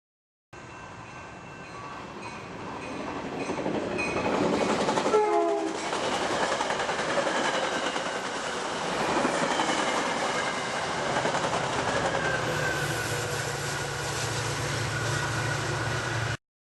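A train passing close by, its sound building over the first five seconds. About five seconds in comes a short horn note that drops quickly in pitch as the train goes by, followed by a steady loud rush of train noise with thin high tones that cuts off suddenly.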